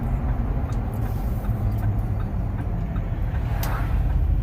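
Steady low rumble of a vehicle's engine and road noise heard from inside the cab, with a brief rustle about three and a half seconds in.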